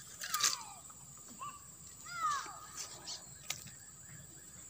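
A bird gives three short calls that slide down in pitch, the loudest about two seconds in, over a few sharp clicks and rustles of a fishing rod and line as a small fish is swung out of the water.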